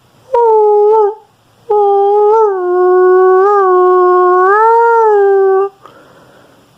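A person imitating a dog howling: a short howl, then a long held howl of about four seconds that swells up in pitch near its end.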